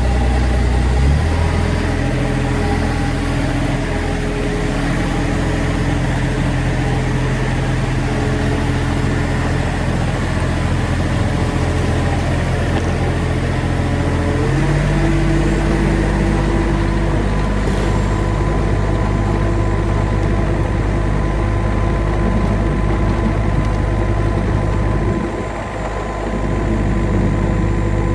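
Excavator engine running steadily, its pitch stepping up about a second in and again about halfway through as the revs change, with a brief drop in loudness near the end.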